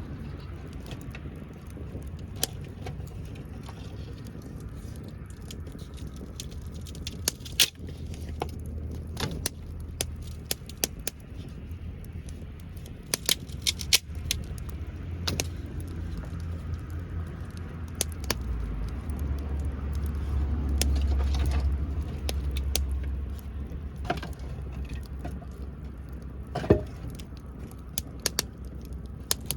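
Wood fire crackling, with scattered sharp pops, over a steady low rumble that swells for a few seconds about two-thirds of the way in.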